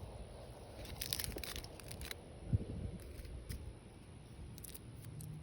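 Faint, scattered crackles of dry leaves being handled, with a soft thump about two and a half seconds in.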